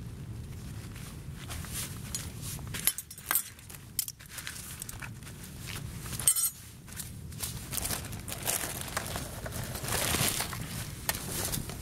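Nylon sleeping-bag and tent fabric rustling and crinkling as it is gathered and handled, with a few sharp clicks, around three seconds in and again just after six seconds.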